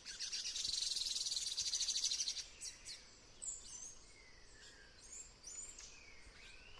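Tanager calling: a loud, rapid buzzing trill for about two seconds, then scattered short high chirps and a few falling whistled notes.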